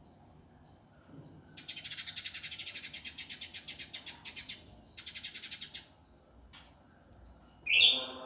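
Indigo bunting singing a harsh, fast, tightly pulsed trill about three seconds long, then a shorter burst of the same. A single short note follows, then a loud rising note near the end.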